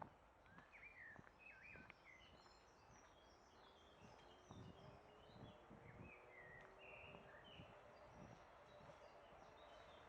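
Faint birdsong: many short chirps and calls from several small birds. Footsteps on a path at an even walking pace, about two a second, from about four seconds in, with a faint drone rising slightly in the middle.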